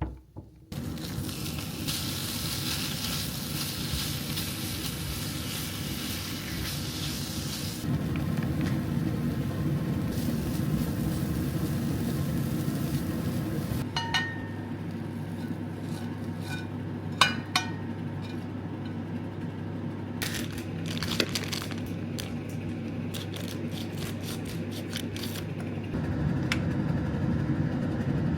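Food sizzling in a pan over a steady low hum, with a few short ringing clinks of utensils on dishes about halfway through and some lighter clicks after.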